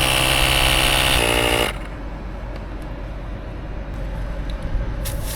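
Cordless portable tyre inflator's motor and compressor running with a steady pitched whine that shifts slightly a little over a second in, then cuts off abruptly under two seconds in. A short hiss of air follows near the end.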